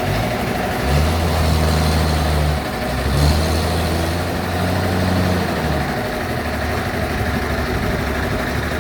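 Sawmill band saw machinery running steadily with a constant mechanical hum. A deeper low hum joins about a second in and fades out a little before the six-second mark.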